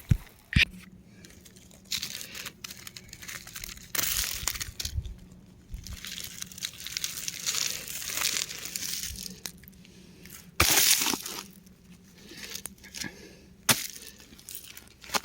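Crumbly rocks crushing and breaking apart in a series of crackling, crunching bursts, with sharp cracks and quieter gaps between them. A faint steady low hum runs underneath.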